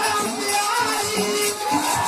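Bundeli devotional folk music: a melody with long held notes over steady jingling percussion.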